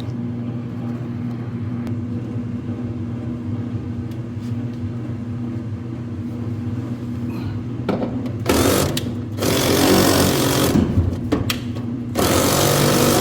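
Steady electric motor hum. From about eight seconds in, loud rough noise comes in three bursts: two short ones, then a longer one near the end.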